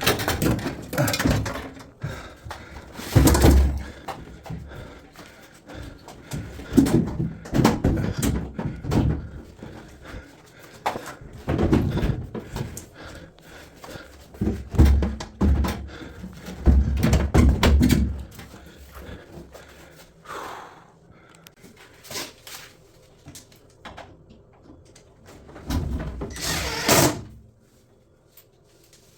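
Irregular knocks, thumps and clatter of drum washing machine parts and panels being handled and set down in a small room, with a few heavier thuds among them.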